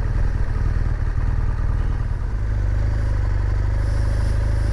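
BMW R1200GS boxer-twin engine running at low speed as the bike pulls up, settling into a steady idle a little over two seconds in.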